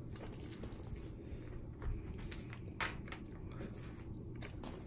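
Cat playing with a feather wand toy: rustling and light taps, with an intermittent high jingling that comes and goes.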